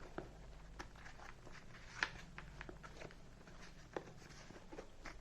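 Faint rustling and small clicks as an earphone cable is rolled up and pushed into a helmet's foam side padding.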